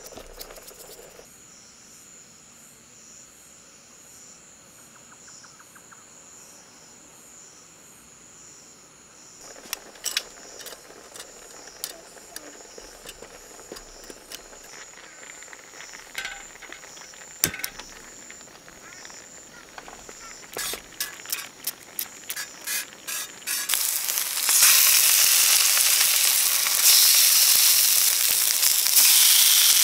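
Insects chirping steadily, then scattered pops and crackles, and about three-quarters of the way in a loud frying sizzle starts, as of food in hot oil, and keeps going.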